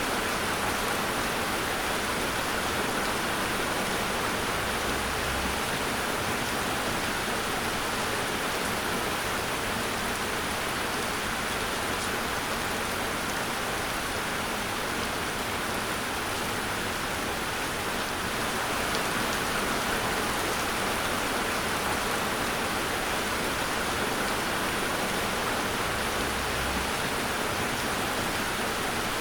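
Steady rain falling on a surface, an even, unbroken hiss of drops with no thunder.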